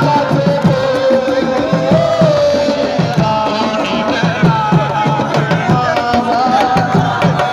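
Hand drums playing a quick, even beat, with voices singing a held, wavering melody over them.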